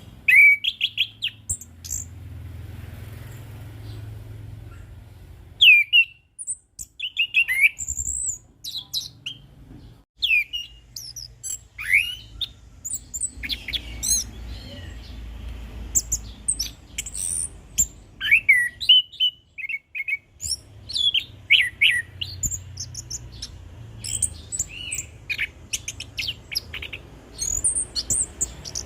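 Chestnut-capped thrush (anis kembang) singing a varied song of quick chirps, whistled glides and trills, in bursts broken by short pauses.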